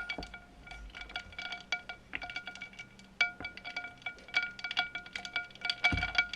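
Quick, irregular light taps and clinks on a small hard object that rings with a bell-like tone after each strike. A dull low thump comes near the end.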